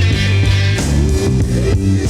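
Late-1960s psychedelic rock music: an instrumental passage with electric guitar, bass and drums.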